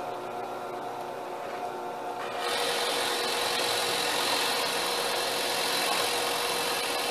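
Electric drill motor running steadily, then from about two and a half seconds in its bit cutting into wood with a steady rasp as it bores a dowel hole.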